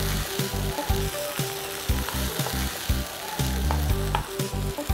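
Chopped tomatoes, onion, garlic and sweet pepper sizzling in a hot non-stick frying pan as they are stirred with a spoon, with occasional light scrapes and clicks of the spoon against the pan, over background music.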